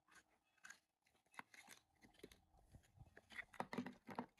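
Faint crinkling and tearing of a wrapper as a packaged sweet is opened: a scatter of small rustles and clicks, busier near the end.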